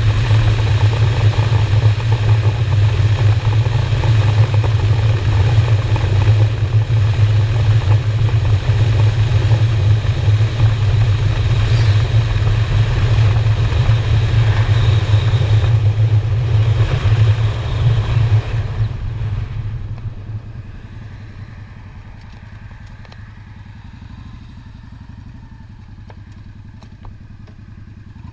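Honda Shadow motorcycle's V-twin engine running steadily at road speed with wind rushing over the helmet camera's microphone; about 19 s in the engine note and wind noise fall away as the bike slows, leaving a quieter, low engine run.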